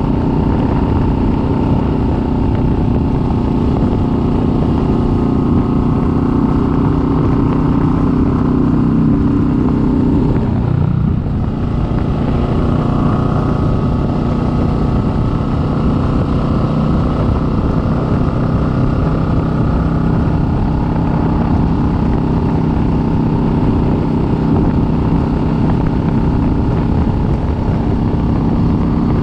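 Kawasaki Vulcan S 650's parallel-twin engine running under way at a steady pace. Its note drops and dips briefly about ten seconds in, then holds steady again.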